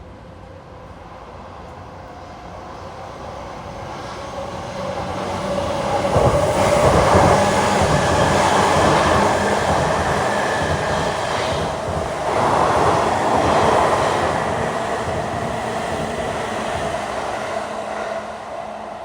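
Narita Express electric limited-express train running through the station at speed without stopping. Its wheel-on-rail and running noise grows over the first few seconds, peaks twice as the cars rush past, then fades as the train moves away.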